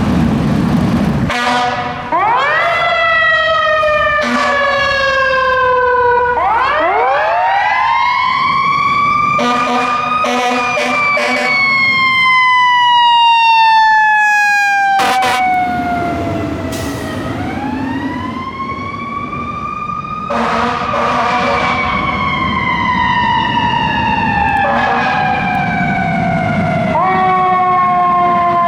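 Fire apparatus sirens passing, several times winding up quickly and then falling away slowly in pitch over several seconds. Short horn blasts cut in near the start and again in the middle.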